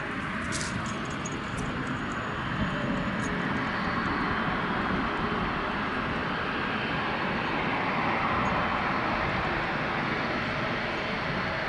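Airbus A220 airliner's Pratt & Whitney PW1500G geared turbofan engines during its landing, a steady rushing jet noise that swells a few seconds in and holds.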